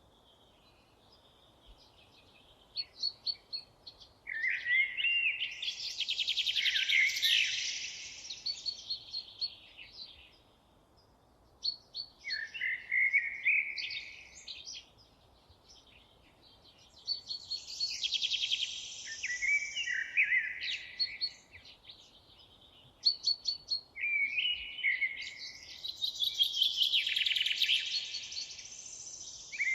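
A songbird singing long, fast, varied phrases with rapid repeated notes and trills, in four bouts separated by short pauses.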